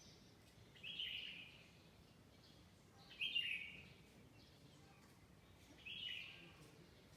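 A songbird repeating the same short call three times, about every two and a half to three seconds, each call under a second long. A faint steady background hum lies underneath.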